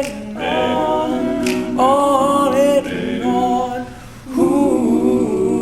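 Men's a cappella group singing close harmony, several voices holding chords in phrases of a second or two, with a short dip around four seconds in.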